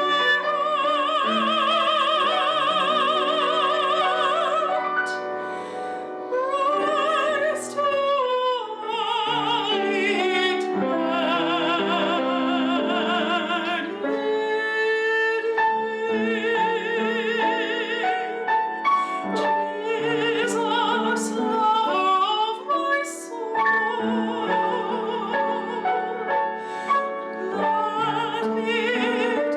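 Classical solo singing in an operatic style: long held notes with wide vibrato over sustained instrumental accompaniment.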